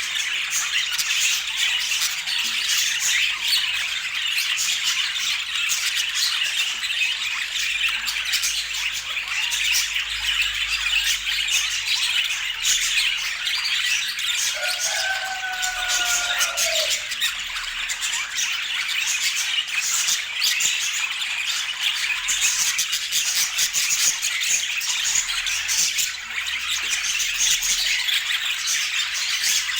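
Budgerigars chattering and squawking without a break. A faint steady tone is heard for about two seconds near the middle.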